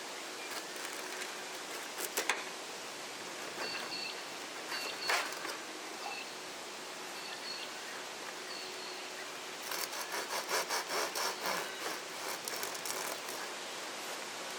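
A run of rapid rhythmic scraping strokes, about three a second, starting about two-thirds of the way in, over a steady hiss, with a few sharp knocks and short high bird chirps earlier on.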